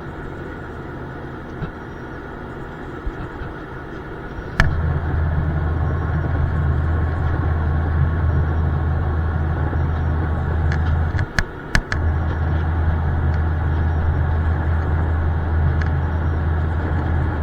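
Airliner cabin noise in flight: a steady drone of jet engines and rushing air. About four and a half seconds in, the low drone steps up sharply, starting with a click, and two short dropouts in the drone come near the middle.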